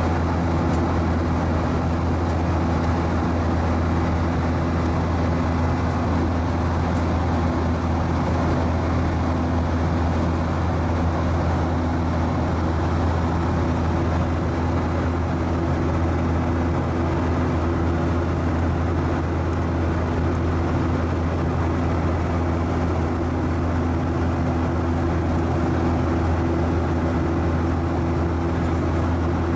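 Steady drone inside the cabin of a Boeing 737-900ER in flight: the CFM56-7B engines and the airflow over the fuselage, an even rush with a constant low hum.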